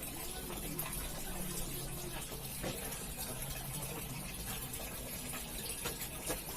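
Water running steadily, with a few faint knocks.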